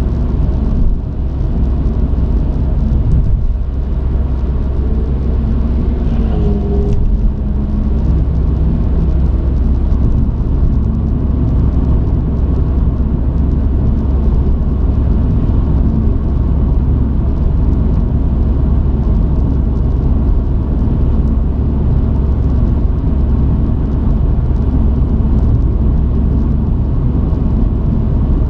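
Truck driving on the road: a steady, heavy low rumble of engine and road noise, with a brief change in engine pitch about six seconds in.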